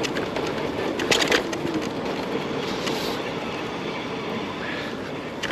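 Shared bicycle rolling over pavement, with a steady road-and-wind noise and a quick cluster of rattling clicks about a second in, as the bike jolts over a bump.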